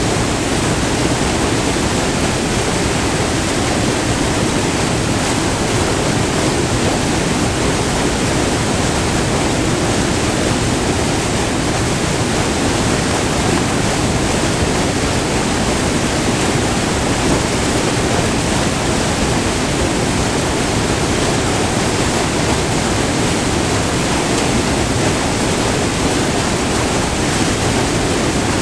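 Multi-tiered river waterfall, white water rushing steadily and loudly up close.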